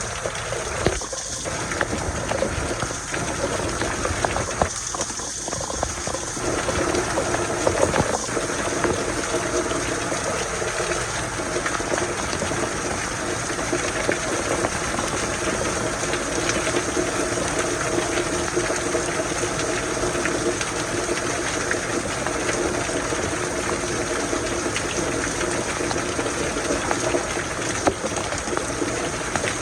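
Steady rain shower falling.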